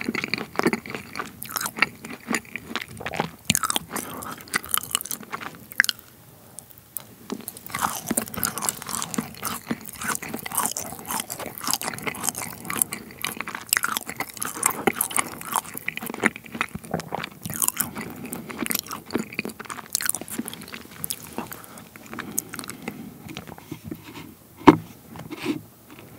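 Close-miked chewing of a crunchy dessert: dense, crisp crunches with wet mouth sounds. There is a brief lull about six seconds in and a single sharp knock near the end.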